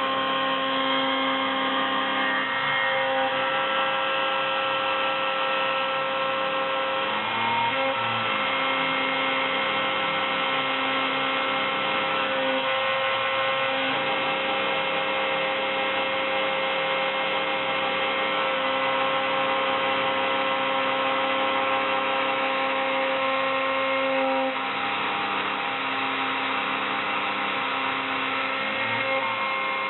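CNC mill cutting thin copper foil with a 3 mm solid carbide fishtail end mill: a steady hum of spindle and axis motors. The motor tones shift and briefly glide in pitch a few times as the feed changes.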